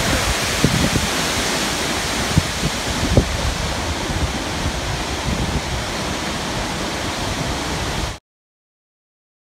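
Waterfall rushing: a steady, dense wash of falling water, with a few low thumps of wind on the microphone in the first few seconds. It cuts off abruptly about eight seconds in.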